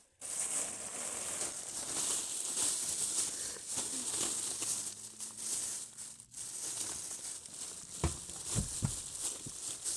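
Continuous rustling and crinkling of handled material, pausing briefly about six seconds in, with a few low thumps near the end.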